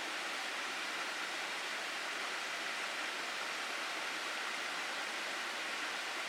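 Water rushing steadily down a mountain gorge: an even, unbroken hiss.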